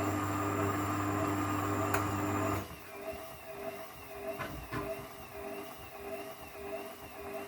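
1994 Ocean 900 washing machine's drum motor running with a steady hum as the drum tumbles between rinses. The hum cuts off about two and a half seconds in, leaving a quieter, wavering machine sound with a couple of faint clicks.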